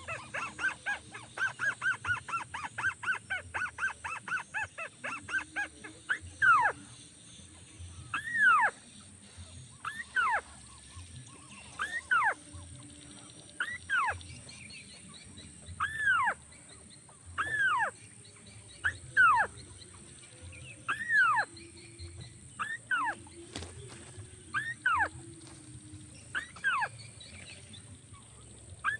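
Crake calls. For about the first six seconds there is a fast run of short, closely repeated notes. After that comes a single call roughly every one and a half to two seconds, each sweeping up in pitch and back down.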